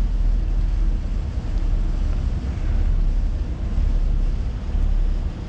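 Steady low rumble of a trawler's engine running under way, with wind buffeting the microphone.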